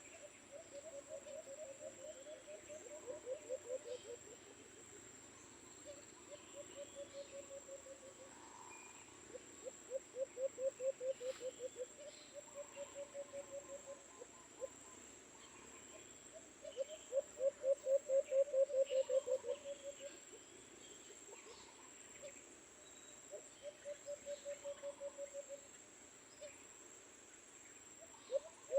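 A dove calling in repeated bouts of fast, pulsing low coos, each bout two to three seconds long, the loudest about two-thirds of the way through. A steady high insect whine runs underneath, with faint chirps from other birds.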